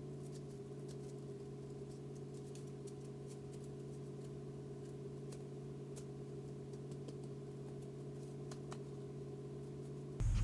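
A steady low mechanical hum with faint scattered ticks.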